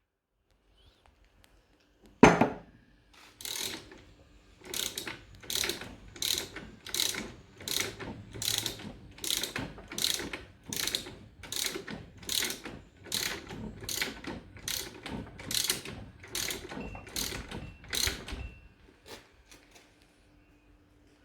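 Hand ratchet wrench working a bolt loose on a car's front strut assembly, clicking in a steady run of about twenty strokes, roughly one and a half a second. A single sharp knock comes shortly before the ratcheting starts.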